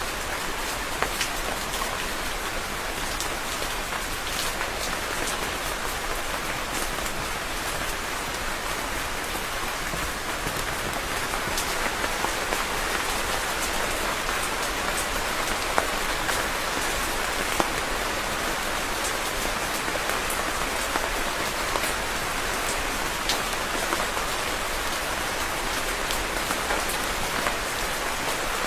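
Steady rain falling on a surface, an even hiss with scattered sharper drop taps.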